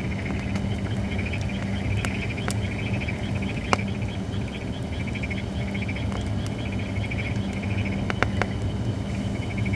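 Holly firewood burning in a campfire, crackling with a handful of sharp pops, the loudest a little under four seconds in. Behind it runs a steady, rhythmic high chirping and a low steady hum.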